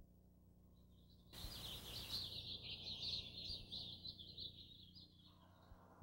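Faint high bird chirping, a dense run of chirps that comes in about a second in and fades out about five seconds in.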